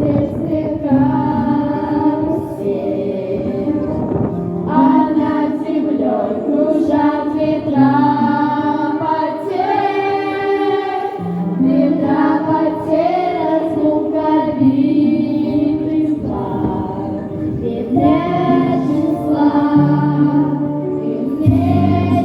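A girls' vocal ensemble singing together in parts over an instrumental accompaniment with held bass notes.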